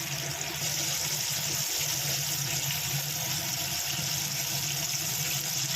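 Flour-coated chicken pieces deep-frying in hot oil on a medium flame: a steady sizzle that grows brighter about half a second in.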